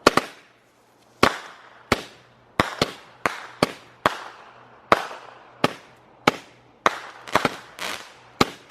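Consumer firework cake firing a rapid string of shots: sharp bangs about two a second at uneven spacing, each trailing off in a fading crackle and echo.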